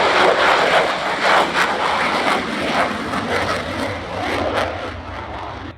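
F-35A Lightning II's single turbofan jet engine roaring past with a crackling rush of noise that slowly fades, then cuts off abruptly at the end.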